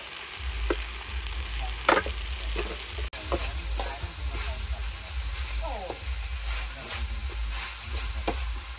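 Food frying and sizzling in a metal wok while a metal ladle stirs it, scraping and knocking against the pan several times, loudest about two seconds in.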